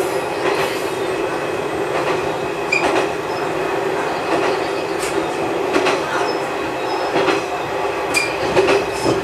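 A single-car diesel railcar running along jointed single track, heard from inside the car: a steady engine and running drone with irregular clacks of the wheels over rail joints and a couple of brief high wheel squeaks.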